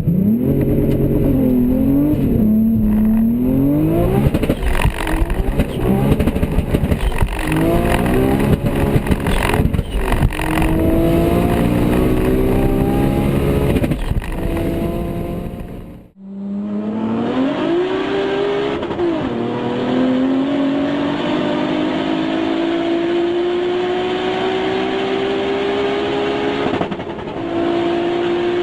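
Toyota Supra turbo engine revving hard, its pitch rising and falling quickly, with some crackling in the middle. After a sudden cut, the engine pulls with a long, steady climb in pitch, as under sustained acceleration, with a brief dip in loudness near the end.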